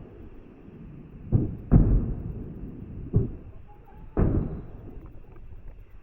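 Aerial fireworks bursting: four booms in about three seconds, the second close behind the first, each followed by a rumbling tail that dies away.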